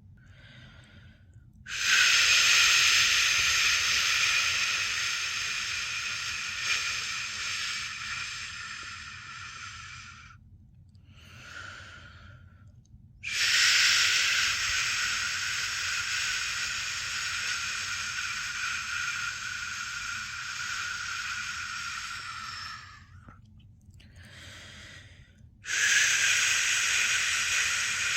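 A person making a long, steady "shhh" shushing sound to soothe a newborn to sleep, as in the shush-pat method. The shush is held for about eight to ten seconds at a time, three times, with a short pause for breath between each.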